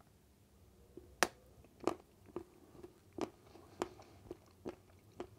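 A bite snapping off a piece of a large chocolate coin, a sharp crack about a second in, followed by close-up chewing heard as a string of short, irregular clicks.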